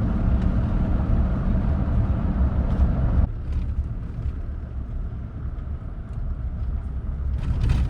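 A truck driving, with steady low engine and road rumble that drops in level about three seconds in.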